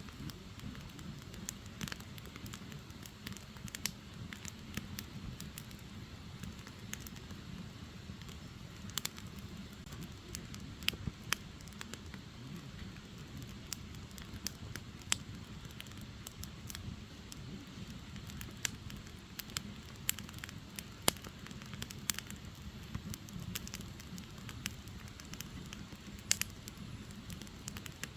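Firewood burning, with irregular sharp crackles and pops, a few louder, over a steady low rumble.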